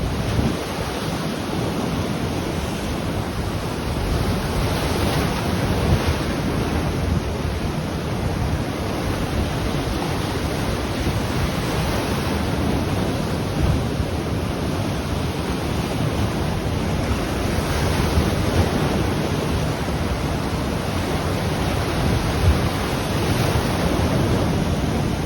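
Ocean waves breaking and washing on a shoreline, a steady roar of surf that swells and eases, with wind buffeting the microphone.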